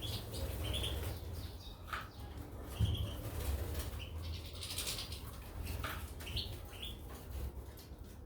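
Small caged finches, goldfinches and canaries, fluttering their wings in short bursts, with brief high chirps scattered through.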